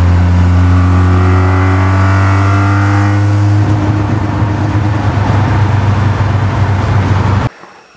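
Car engine heard from inside the cabin while driving, its pitch climbing steadily as it accelerates for about three seconds. About halfway through it turns rougher and less even, then cuts off suddenly near the end.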